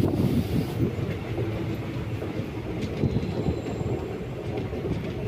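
Passenger train coaches rolling along a station platform, wheels rumbling and clattering over the rail joints. Heard from an open coach door as the train comes in to stop. A rush of wind on the microphone fades out about a second in.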